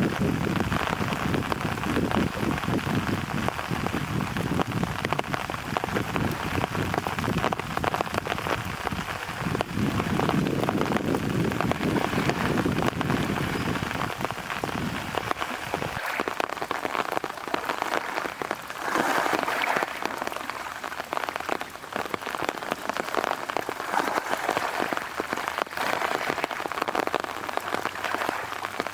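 Wind-driven rain as a typhoon approaches, a dense steady hiss. A heavy low rumble of wind fills roughly the first half, then drops away about halfway through, leaving mostly the hiss of the rain.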